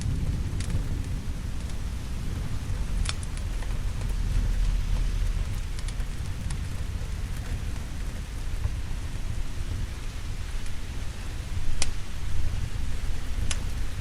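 Steady rain with a low, rolling rumble of thunder that swells about four seconds in. A few sharp crackles stand out over the rain, two of them about three and twelve seconds in.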